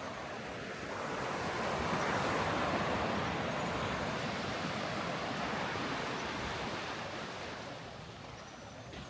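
Surf on a sandy beach: a wave swells in about a second in, then slowly washes back and fades.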